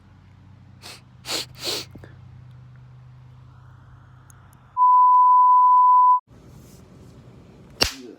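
A single steady high-pitched censor bleep, about a second and a half long, starting just past halfway, with all other sound cut out around it. Before it, three short breathy bursts over a low hum; a sharp click near the end.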